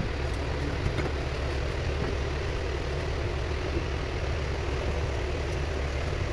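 A motor-driven machine running steadily at constant speed, with a low hum under an even rushing noise.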